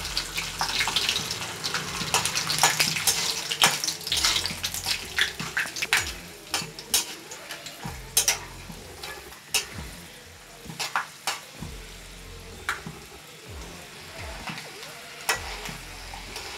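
Peanuts frying in hot ghee in a steel kadhai: dense sizzling and crackling that thins out after about six seconds. A metal spatula stirring against the pan adds sharp clicks and scrapes.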